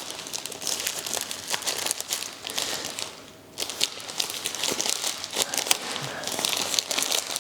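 Packaging of a pack of milk frother cleaning tablets being opened by hand: crinkling and crackling of the wrapping, with a brief pause about three seconds in.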